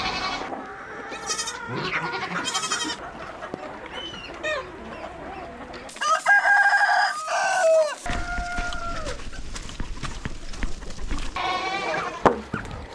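Free-range chickens clucking and calling, with a rooster crowing once for about two seconds a little past the middle, the loudest sound.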